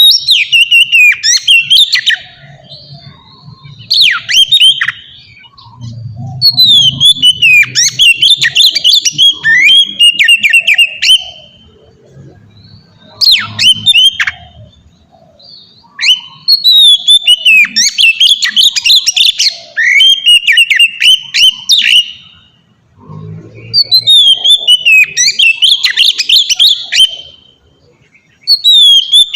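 Oriental magpie-robin (kacer) singing loudly in the open, continuous 'ngeplong' style: fast strings of sharp whistles and chirps that glide up and down. The song comes in several bouts of one to five seconds, separated by short pauses.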